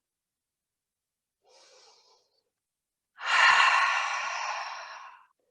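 A woman's breath: a faint inhale, then a long, audible, breathy exhale of about two seconds that starts strong and fades away.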